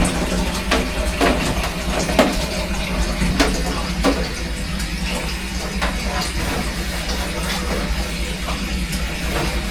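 Scattered light knocks and clinks of kitchen items being handled during cleaning, over a steady low hum.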